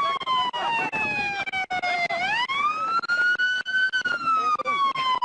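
Police car siren on the slow wail: the pitch falls for about two seconds, rises for about two, then starts falling again.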